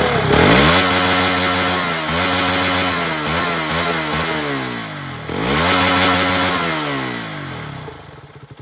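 KTM single-cylinder motorcycle exhaust revved by hand twice. The engine speed climbs and holds with small blips of the throttle, drops sharply about five seconds in, climbs again, then falls back near the end.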